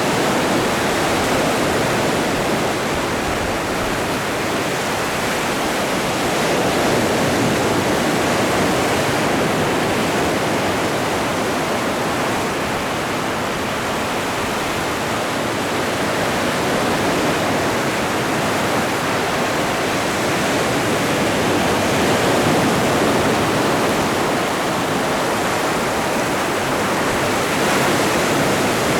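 Atlantic Ocean surf washing onto the shore: a continuous rushing wash with slow, gentle rises and falls in loudness as the waves come in.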